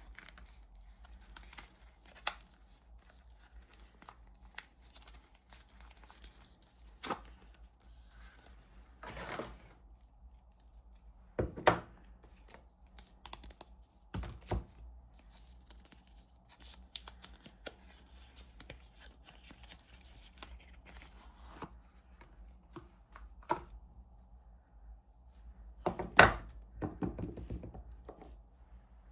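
Soap packaging being torn and unwrapped by hand, with scattered light taps and a few sharper knocks, the loudest one near the end.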